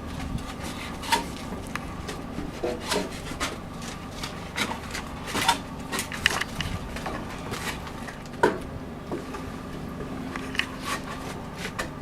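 CM-800 multi-rip edging saw running with a steady tone, while wooden boards knock and scrape irregularly against the machine.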